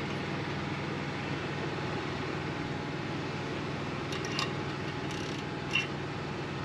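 Steady mechanical hum of a running engine, with light metallic clicks of a vice grip working on a tire valve stem, about four seconds in and again near six seconds.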